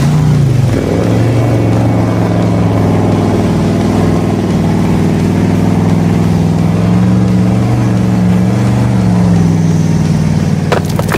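A steady engine-like drone, holding one low pitch with a slight waver, with a few sharp clicks near the end.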